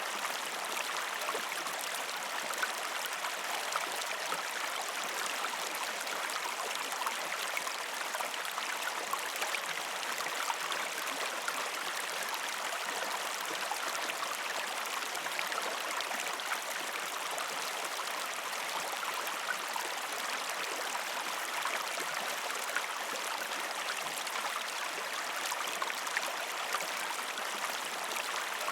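A gentle river stream flowing over rocks: a steady rushing of water, dotted with many small splashes.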